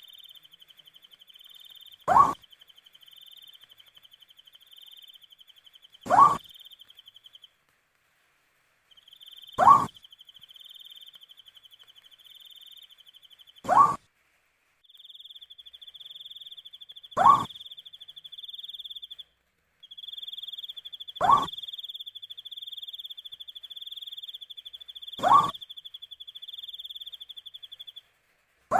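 An owl calls about every four seconds, each call a short, loud note rising in pitch, seven times in all. Under it runs a steady pulsing cricket trill that drops out briefly now and then.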